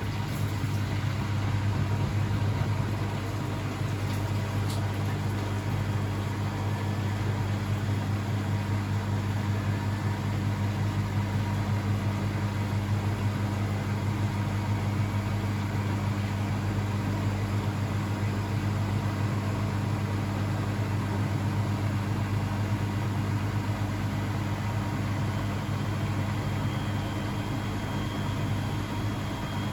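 Blomberg WAF 7442 SL washing machine running with a steady low hum.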